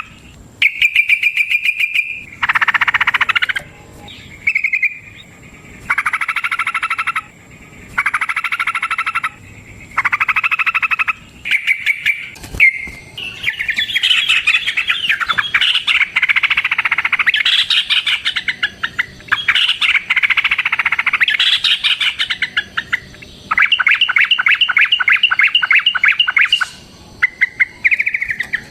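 Yellow-vented bulbul (trucukan) song, a lure recording of long rapid 'ropel' phrases. At first comes a rattling phrase about every two seconds. From about halfway in, the calls run together into dense, continuous chattering, ending in a fast even run of notes.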